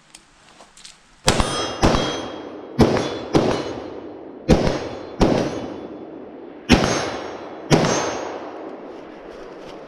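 Eight gunshots from a competitor firing through a practical shooting stage, loosely in pairs, each followed by a long ringing decay, with the clang of steel targets being hit.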